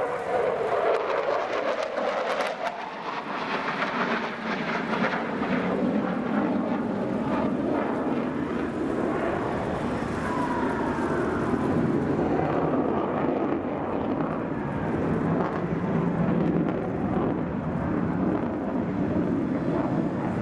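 F-15 fighter jet's twin turbofan engines running loudly during a display pass. The high hiss fades about twelve seconds in, leaving a lower rumble.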